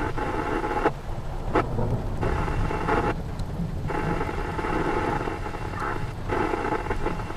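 Thunder rumbling over steady rain. A scanner radio's hiss cuts in and out several times over it.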